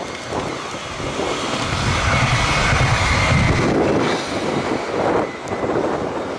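Passenger multiple unit passing by on the rails. Its rumble swells to its loudest about two to three and a half seconds in, then fades as the train goes away. Wind buffets the microphone throughout.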